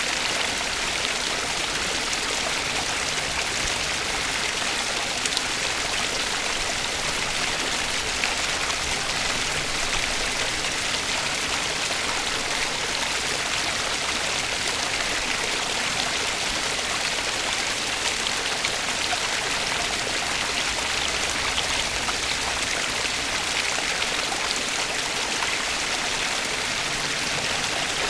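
Flowing stream water: a steady, even rush of splashing water with fine droplet ticks, unchanging throughout.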